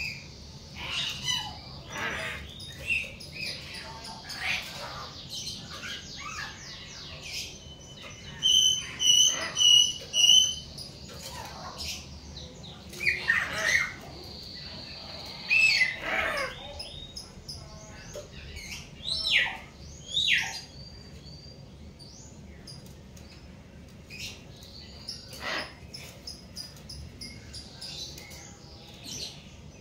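Hill mynas calling: a mix of whistles, chirps and squawks. A run of four loud whistled notes comes about nine seconds in, and sharp swooping calls follow later.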